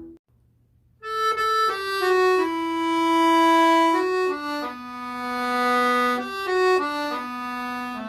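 Solo accordion playing a slow melody of held single notes. The previous tune stops right at the start, there is about a second of near silence, then the new tune begins about a second in.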